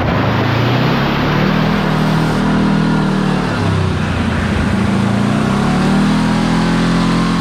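Kawasaki Teryx KRX4 1000 side-by-side's engine running under way, revving up, easing off about halfway through, then revving up again. A steady rush of tyre and wind noise runs underneath.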